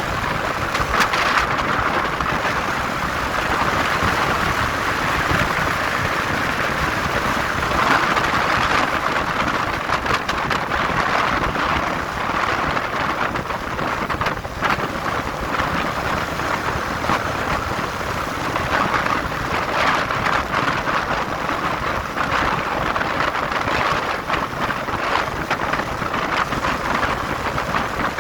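Steady rush of wind over the microphone on a moving motorcycle, with the motorcycle's engine and road noise beneath it.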